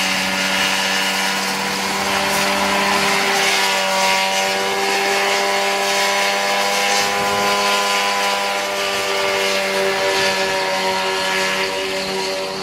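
Engine of a home-built Mosquito-style ultralight helicopter running steadily, its pitch climbing a little about three seconds in and then holding.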